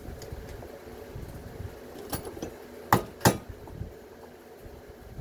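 Sharp metal-on-metal clinks and taps from hand tools working on a washing machine part, with two loud strikes close together about three seconds in, over a low steady rumble.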